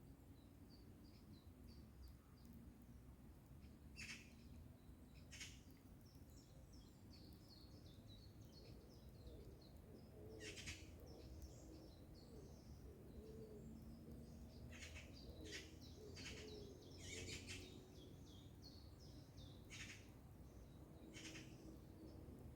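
Small songbirds chirping in quick high notes, with the harsh rasping chatter of Eurasian magpies breaking in again and again, most thickly in the second half.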